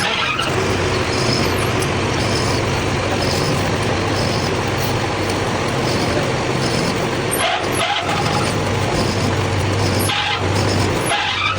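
Steady machine noise with a constant low hum, running without a break.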